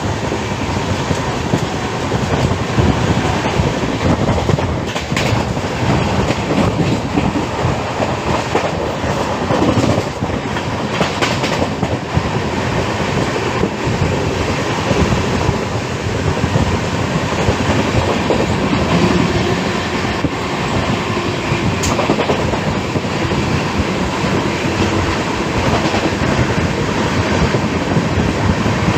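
Passenger express train running along the track, its wheels clattering and rumbling steadily with scattered knocks from the rails.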